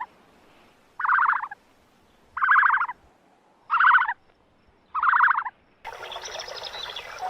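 An animal calling four times at even intervals, about one call every second and a quarter. Each call is a short pulsed rattle lasting about half a second. A different, steadier sound comes in near the end.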